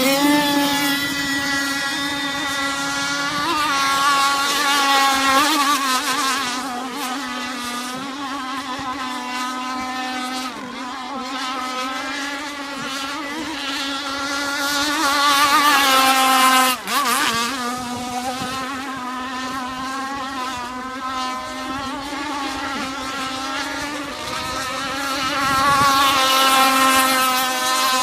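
Two-stroke 32cc Zenoah gas engine of an RC sport hydro boat running flat out, its high-pitched note wavering up and down. It swells louder twice and cuts out sharply for a split second about 17 seconds in.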